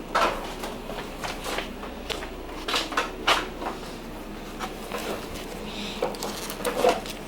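Irregular clicks and light knocks of metal parts being handled as a braided brake line's banjo fitting, crush washers and banjo bolt are fitted together.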